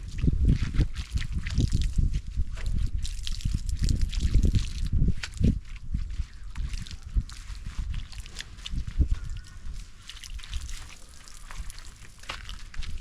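Water from an open outdoor tap splashing and sloshing as a person washes their body under it, in uneven splashes that are heavier in the first half and lighter later.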